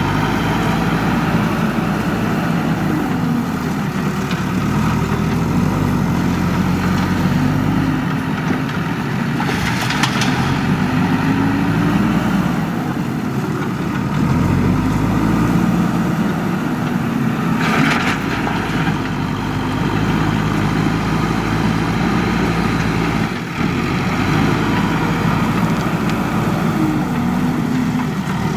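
Diesel engine of a JCB 3DX backhoe loader running and revving up and down in repeated cycles as it works. There are two short hisses, about ten and eighteen seconds in.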